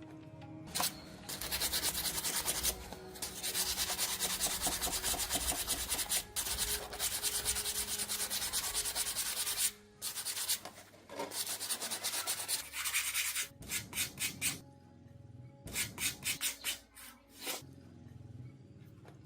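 Abrasive rubbing by hand, like sanding or scrubbing a rusty part. It runs in a long continuous stretch, then breaks into shorter bursts and finally quick short strokes near the end. Faint background music plays underneath.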